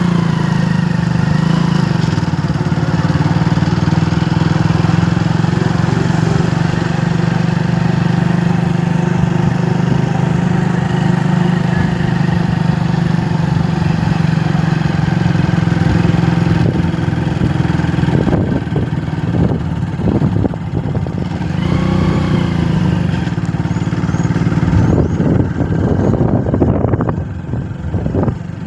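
Motor vehicle engine running steadily with a low, even hum while driving in gear. From about two-thirds of the way in, irregular knocks and rattles come in over the engine.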